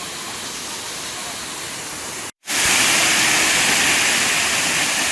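Waterfall's rushing water, a steady hiss. About two and a half seconds in it cuts out for an instant and comes back louder and brighter.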